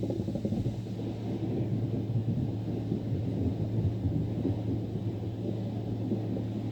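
Steady low machinery rumble with a constant deep hum, unchanging throughout.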